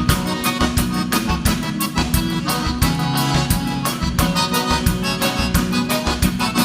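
Live gaúcho dance band playing an instrumental passage: accordion carrying the melody over a steady drum and bass beat.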